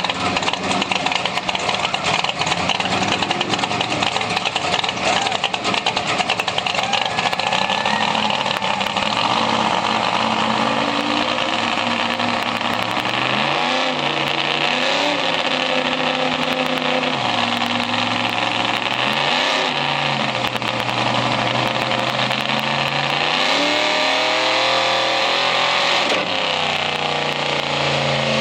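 1966 Shelby Cobra drag car's V8 running on a dynamometer: first a dense, rattling run, then its pitch rising and falling again and again as the revs swing up and down.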